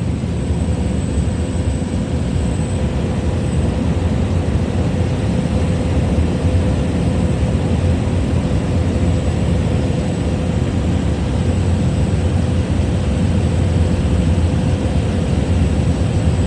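Small plane's engine and propeller droning steadily in cruise, heard from inside the cabin, with a constant hum running through it.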